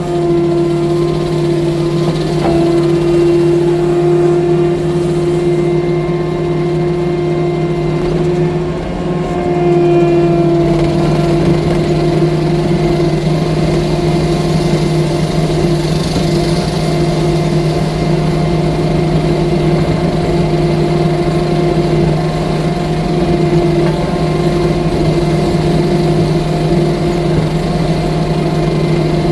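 Diesel engine of a 6-ton tracked skid steer loader running steadily at a constant working speed, with a brief dip in level and pitch about a third of the way in.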